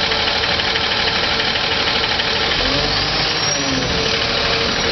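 Recycling truck's engine idling steadily, with a faint steady whine in the second half.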